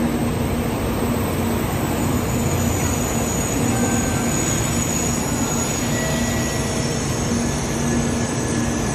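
Doctor Yellow shinkansen inspection train running past close by along the platform: a steady rush and rumble of wheels on rail. After about three and a half seconds, faint thin high tones come and go over it.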